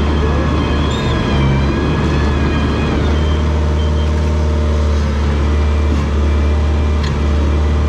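Komatsu bulldozer's diesel engine running steadily, a loud, even low drone.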